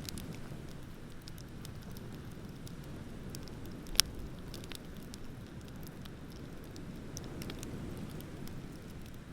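Wood bonfire crackling, with scattered small snaps and one loud sharp pop about four seconds in, over a low steady rush.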